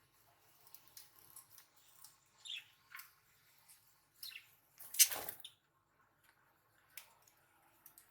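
Budgerigars giving short, soft chirps among scattered small clicks and scratches, with one louder noisy rustle or thump about five seconds in.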